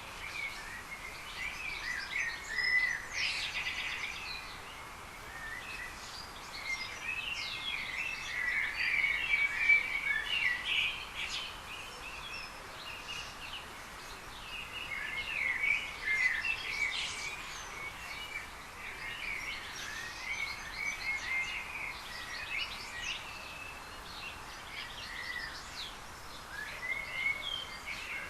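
Many small birds chirping and twittering at once, a dense overlapping chatter of short chirps and trills over a steady outdoor hiss.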